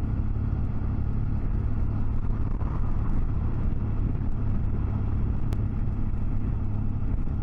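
Motorcycle under way at a steady speed: engine drone with low wind rumble on the microphone.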